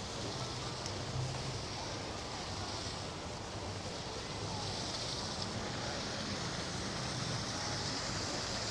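Steady outdoor ambience: an even, rushing wash of noise with no distinct events.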